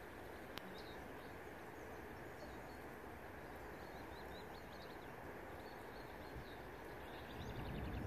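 Steady outdoor background noise with faint, short, high bird chirps scattered throughout. There is a single sharp click about half a second in, and the low rumble swells near the end.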